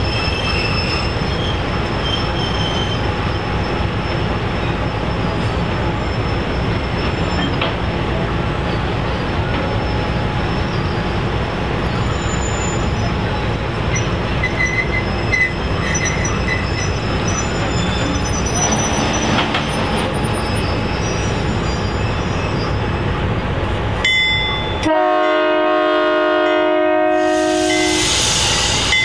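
A diesel-hauled train rolling by with a steady rumble and a few brief high wheel squeals, then the locomotive's air horn sounds one long chord-like blast of about four seconds near the end.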